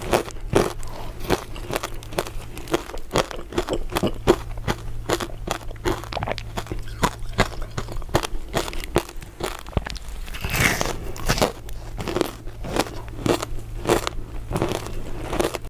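A person biting and chewing crisp crystal ice dessert pieces close to the microphone: a steady run of sharp crunches, several a second, with a longer, louder crackle about ten seconds in.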